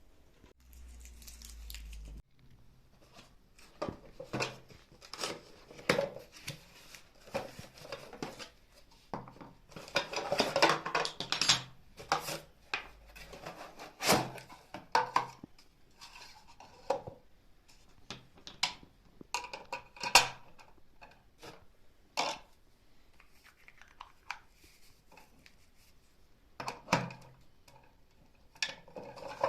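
New kitchenware being unpacked and handled: a string of clinks and knocks as items are picked up and set down. Near the middle, packaging rustles and tears for a few seconds.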